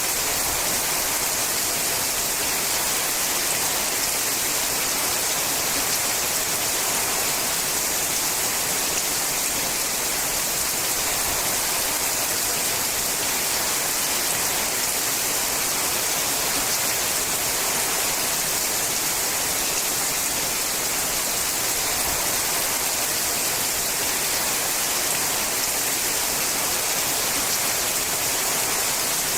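Steady rain falling on a sheet-metal roof: an even, unbroken hiss.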